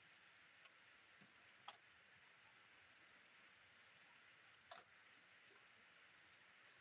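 Faint steady rain hiss, with a few separate drops ticking sharply against it, the clearest about two seconds in and again near the five-second mark.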